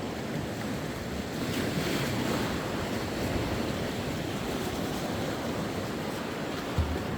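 Sea waves breaking and washing on the shore, one wave swelling about two seconds in, with wind on the microphone and a brief low thump near the end.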